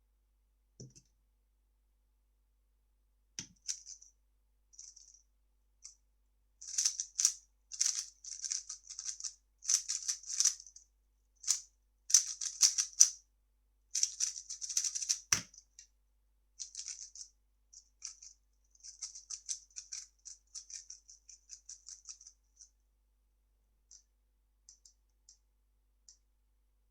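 3x3 speed cube being turned very fast: dense runs of plastic clicking, with a single sharp knock about fifteen seconds in, then further bursts of turning that thin out to a few clicks near the end.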